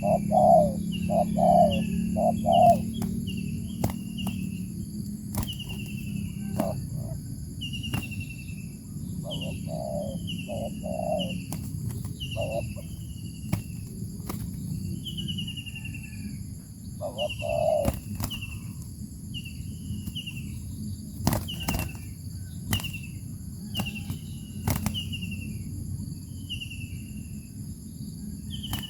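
Birds calling: a short falling whistled note repeated about once a second, with clusters of lower clipped notes in between, over a steady high-pitched drone and occasional sharp clicks.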